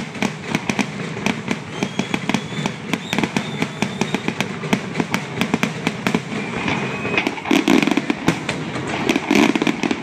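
Fireworks display: rapid crackling bursts and bangs of aerial shells, with a few whistles rising in pitch about two to four seconds in. The heaviest booms come in the last three seconds.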